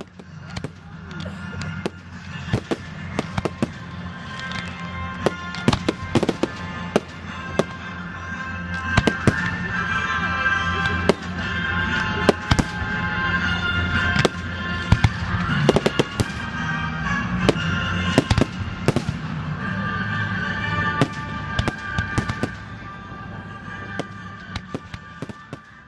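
Fireworks display: a rapid string of sharp bangs and crackles that builds to a dense volley in the middle and thins out toward the end, over a steady low rumble and held tones.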